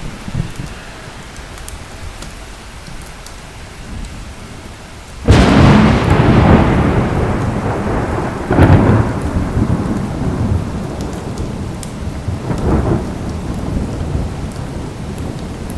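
Thunderstorm with steady rain. About five seconds in, a sudden close thunderclap cracks and rolls into a long rumble that swells twice more before fading back under the rain.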